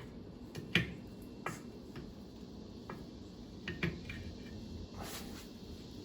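Scattered light clicks and knocks of metal parts and tools being handled during stern drive reassembly: a few sharp ones, including a quick pair past the middle, and a short rustle near the end.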